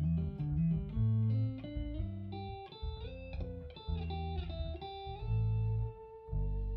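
Guitar playing a shuffle: a quick run of single melody notes over a low bass line, settling into held notes near the end.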